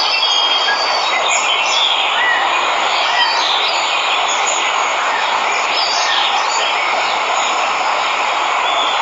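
Waterfall rushing steadily, with jungle birds chirping and whistling over it.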